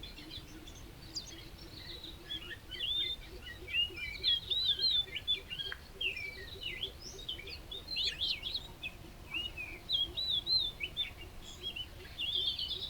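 Songbird twittering: a steady stream of quick, high chirps and short rising and falling notes, ending in a rapid trill.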